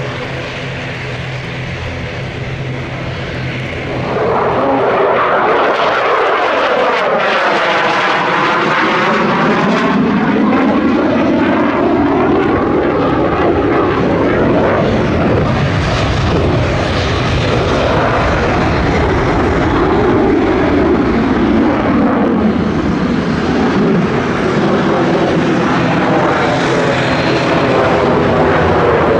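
Danish F-16 Fighting Falcon jet engine noise during a display pass: a steady hum that swells suddenly about four seconds in, then sweeping pitch that falls and rises as the jet goes by.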